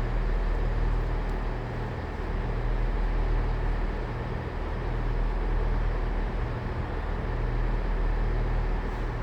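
Diesel train engine idling, a steady low drone with a constant hum under a wash of background noise.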